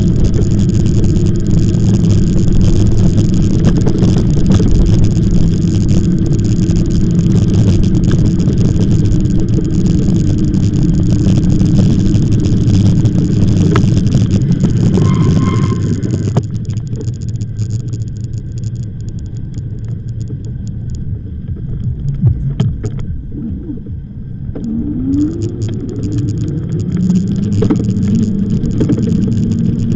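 Steady rush of wind and rolling noise from an e-bike being ridden, with a low hum under it. It eases about halfway through, and a short rising whine comes shortly before the noise builds again near the end.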